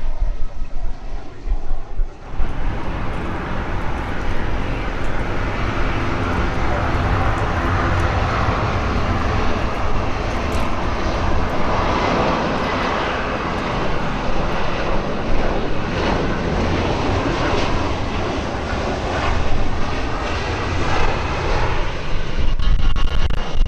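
Aircraft engines running loud and steady, cutting in about two seconds in and holding, as an airliner moves on or past the runway.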